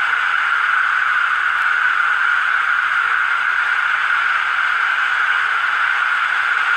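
Steady hiss of static-like noise at an even level, with no change.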